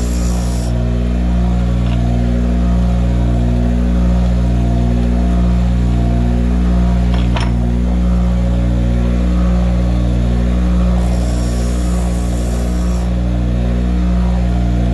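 Bench grinder's electric motor running with a steady hum that swells and fades about once a second, with two stretches of high hiss, at the start and about eleven seconds in, as brass pen tubes are ground against the wheel to take off burrs. A single sharp click about seven seconds in.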